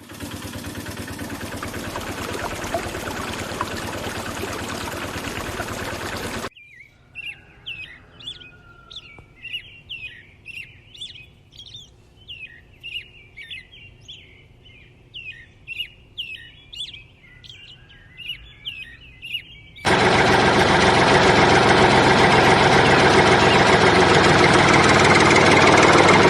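Small birds chirping rapidly in quick high calls, framed by hard cuts. Before the chirps comes a steady machine-like running noise, and after them a louder one, most likely a small engine or motor running.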